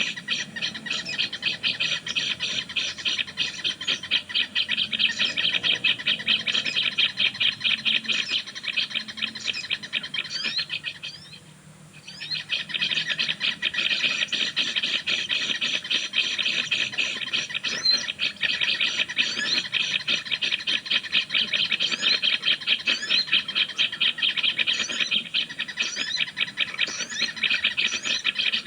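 A dense, rapid ticking trill of bird calls with short, high, falling chirps over it. It stops for about a second near the middle, then carries on.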